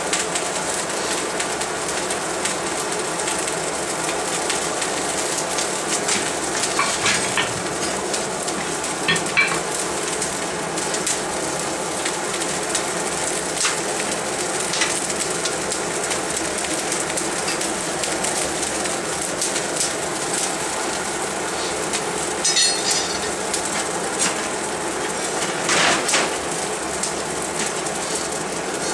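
Fire burning: a steady rush with scattered crackles and pops.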